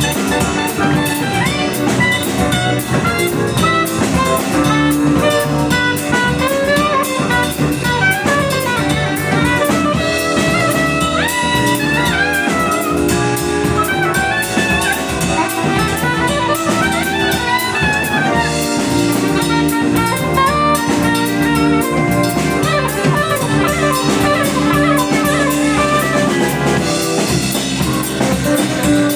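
Jazz quartet playing an instrumental break: a melodic solo line weaving over drum kit and steady accompaniment.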